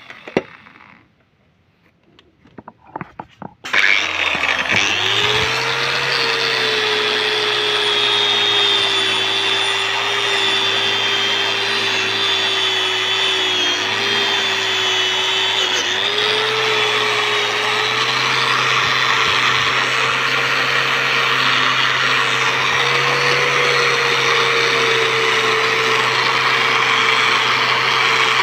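Electric grinder fitted with a wire brush starting up after a few light clicks, its motor whine rising to speed, then running steadily as the wire brush scrapes crust and rust off a motorcycle exhaust header pipe. The motor pitch dips briefly a couple of times under load.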